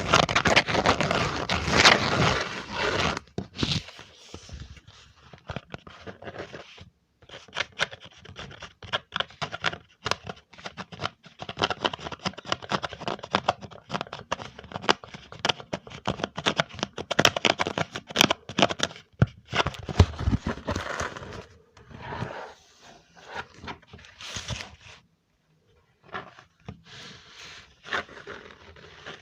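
Close-miked ASMR trigger sounds: a dense run of small scratches, crinkles and clicks, with two short breaks, one about a quarter of the way in and one near the end.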